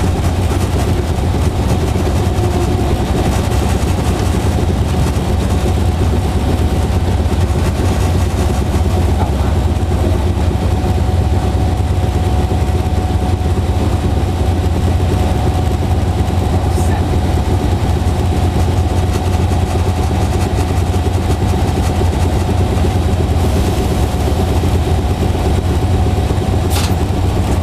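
Diesel locomotive engine idling steadily: a constant heavy low rumble with a steady whine above it.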